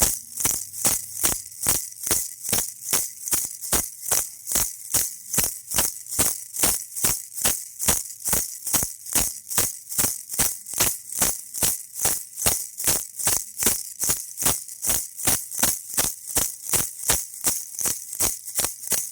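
Baby toy rattle shaken steadily, about three shakes a second, each shake a bright, crisp rattle of the loose pieces inside.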